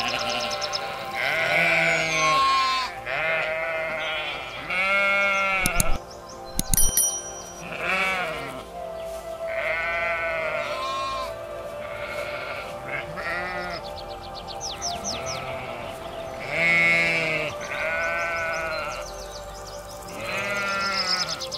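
Sheep bleating again and again, a call every second or two, over background music. There is high chirping near the end.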